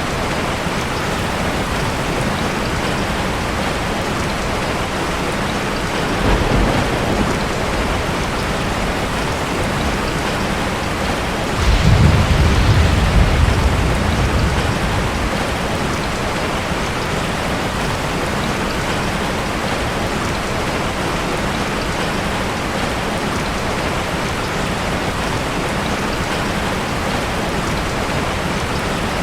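Steady heavy rainfall with thunder: a short low rumble about six seconds in, then a louder rolling rumble about twelve seconds in that fades over a few seconds.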